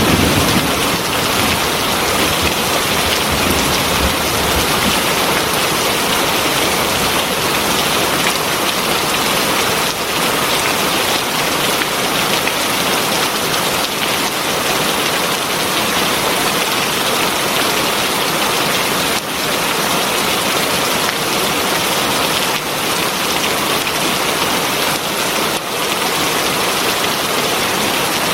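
Heavy rain pouring down steadily, a dense, even hiss of drops on surfaces. A low rumble of thunder dies away in about the first second.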